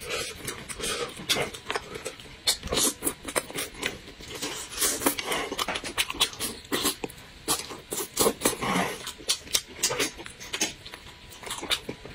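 Close-up eating sounds of a man chewing and lip-smacking on braised meat eaten by hand, a dense run of short smacks at an irregular pace.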